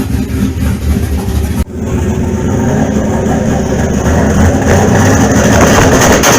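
Turbocharged LS V8 engine of a Dodge Dakota idling with a low rumble. After an abrupt break about a second and a half in, it runs louder, with a high steady whine that grows stronger toward the end.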